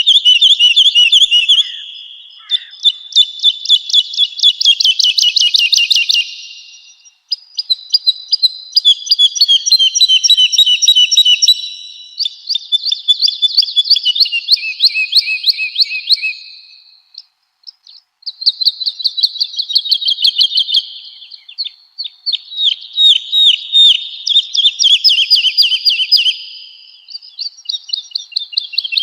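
Woodlark singing: a run of phrases of rapid, repeated high notes, each phrase a few seconds long, with brief pauses between them.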